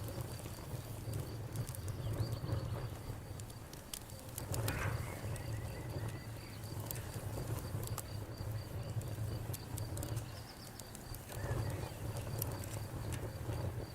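Campfire crackling, with scattered sharp pops over a low steady rumble, and a cricket chirping rapidly and evenly in the background.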